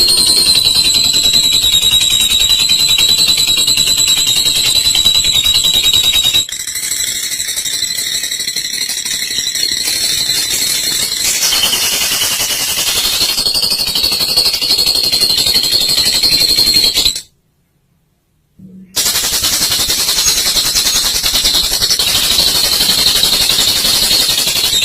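Lovebird giving its long, rapid, high-pitched chattering trill ('ngekek panjang'), held on in long unbroken stretches. It cuts out for about two seconds near 17 seconds in, then resumes.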